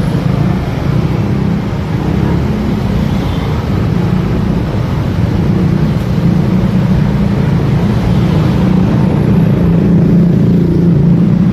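Motorcycle running steadily on the road, engine sound mixed with wind and road noise.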